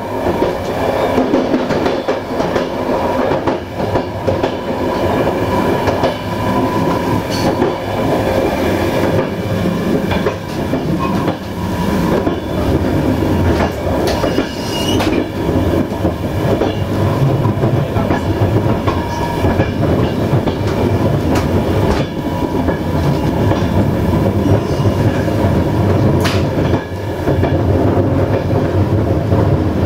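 Passenger train coach running along jointed track, heard from on board: a steady running rumble with the wheels clicking over the rail joints now and then.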